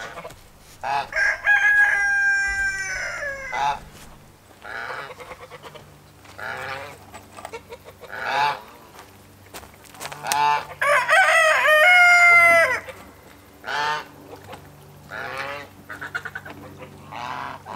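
Rooster crowing twice, each crow about two and a half seconds long, with shorter calls from other poultry in between.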